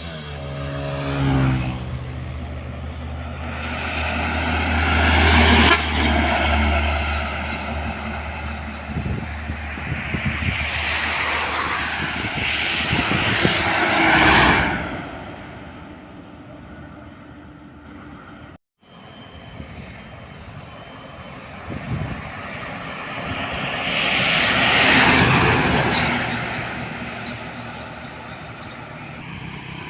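Road traffic passing close by: trucks and other vehicles go past one after another, each swelling and fading away. A deep diesel engine drone comes in the first few seconds, and the sound cuts out for an instant a little past halfway.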